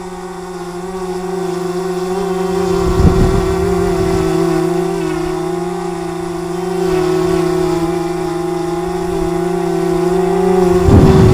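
DJI Mavic Mini drone hovering, its propellers giving a steady whine. Gusts of wind buffet the microphone with a low rumble about three seconds in and again near the end.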